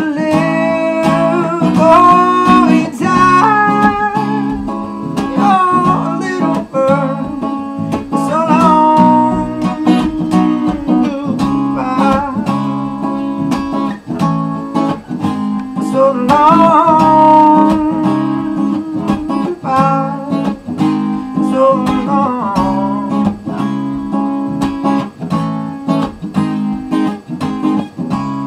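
Acoustic guitar strummed in a steady rhythm, with a wordless vocal line gliding over it for roughly the first twenty seconds, then guitar alone near the end.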